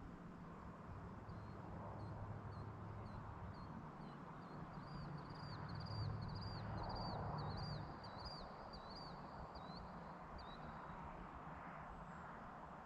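A bird calling a run of repeated high chirps that start sparse, come faster and stronger in the middle, and stop about ten seconds in. Beneath it a low steady hum fades out about eight seconds in, over a faint outdoor hush.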